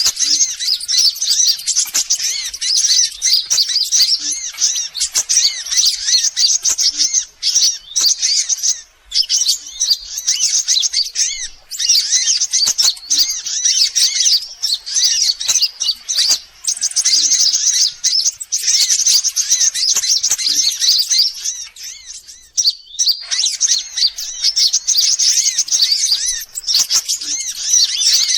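Sunbirds calling: a dense, fast run of high-pitched chirps and twitters, played as a lure recording to attract sunbirds, with a few brief breaks.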